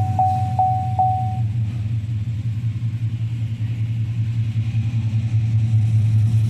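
2018 GMC Sierra's V8 idling steadily just after being started following a water pump replacement. A dashboard warning chime repeats about every half second during the first second or so.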